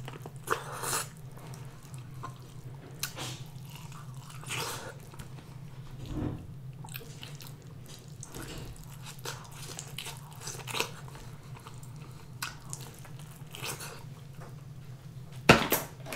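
Close-up eating sounds of boiled corn on the cob in butter sauce: scattered crisp bites and wet chewing over a low steady hum. A single sharp knock near the end.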